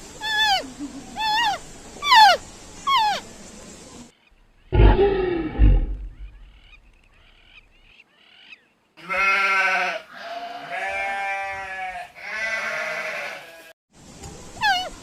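A run of different animal calls: a string of short, high, falling cries, then one deep low call, faint chirps, and a few long, drawn-out bleat-like calls, before the short falling cries start again near the end.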